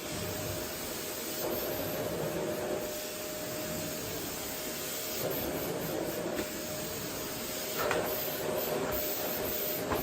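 Vacuum cleaner running steadily over a wooden floor: an even rushing hiss with a steady motor whine, swelling and easing a little as it is moved, and a brief louder burst about eight seconds in.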